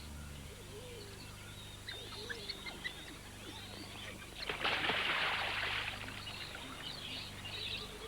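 Wild birds chirping and calling over a low steady hum, with a loud rushing noise lasting about a second and a half just past the middle.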